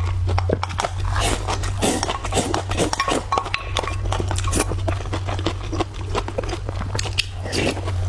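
Close-miked eating sounds: chewing with wet mouth smacks and clicks, over a steady low hum.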